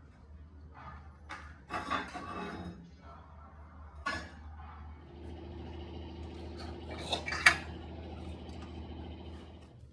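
Metal tools and steel pieces clinking and knocking as they are handled on a workbench, in a few separate strikes with a loud cluster about two seconds in and two sharp clinks near the end. A faint steady hum comes in about halfway.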